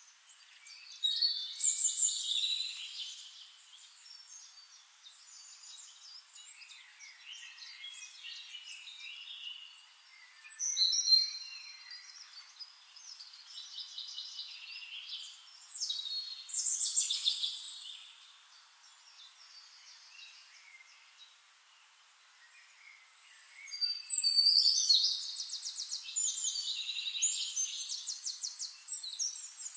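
Songbirds singing: chirps, short whistled phrases and rapid trills in bursts with quieter gaps between them, and a long trilling stretch near the end.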